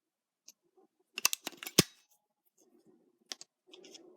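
Sharp plastic clicks and knocks from handling a toy gun's battery compartment as AAA batteries are fitted, a cluster about a second in with one sharp snap, then two more clicks and a faint rustle near the end.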